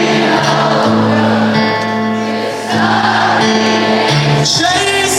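Live acoustic rock music from a concert: held chords that change every second or so, with many voices singing together.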